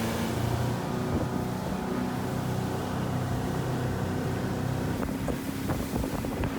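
Motorboat engine running at a steady pitch, with a few short knocks near the end.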